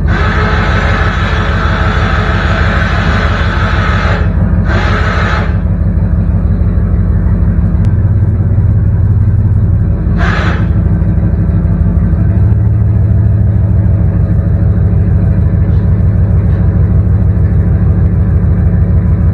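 Truck's 8.1-litre Vortec V8 running steadily, its low note growing stronger about eight seconds in and again a few seconds later. Over it, the electric winch on the truck's bale-spear rig whirs in two bursts in the first five or six seconds, with one more short burst about ten seconds in.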